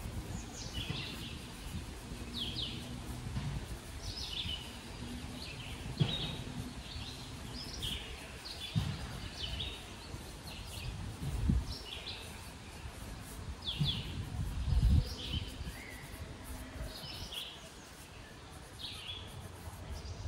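Birds chirping: short, high, down-slurred notes repeating about once a second, over a low rumble with a few low thumps.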